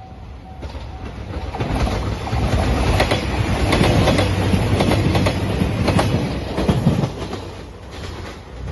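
JR Shikoku 2700 series diesel limited-express train passing close by at speed. Its engine and wheel noise builds over about a second, then runs loud with a rapid clickety-clack of wheels over rail joints before it fades. A level-crossing bell dings faintly at the start.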